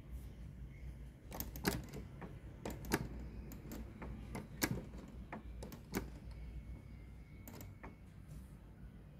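Irregular sharp clicks and knocks, about a dozen spread over several seconds, from hands handling a Sanyo MW220K cassette radio-recorder during repair, over a steady low hum.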